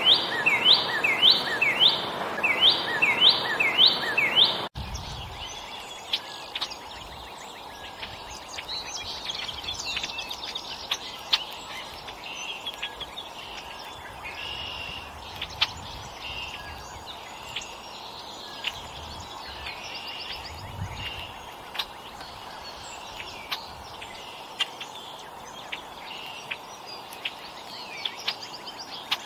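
Songbirds calling and chirping while feeding, many short scattered chirps with occasional sharp clicks over a steady outdoor hiss. For the first five seconds a louder bird call repeats about twice a second, then cuts off suddenly.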